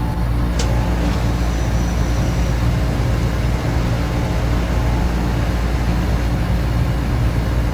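Air conditioner and fans running: a steady low mechanical hum under an even rush of moving air, with one small click about half a second in.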